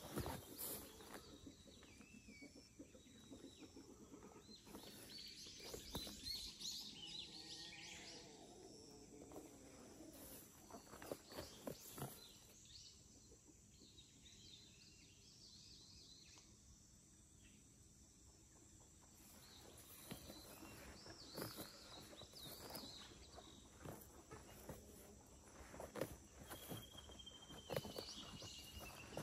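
Faint outdoor ambience with birds chirping now and then, and one long falling whistle near the end. Scattered soft clicks and rustles are heard along with it.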